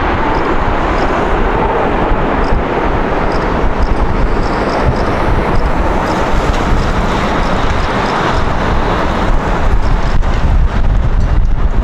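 Jet airliner noise, a loud, even rumble with no clear engine tone, growing slightly louder near the end, with wind buffeting the microphone.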